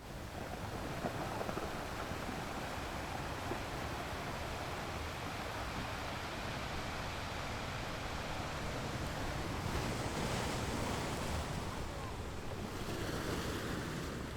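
Sea surf on a beach: a continuous rumble of waves, with the hiss of breaking water swelling about ten seconds in and again near the end.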